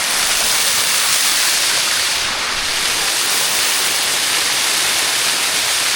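Waterfall water rushing close by, a loud, even hiss of falling water that never lets up.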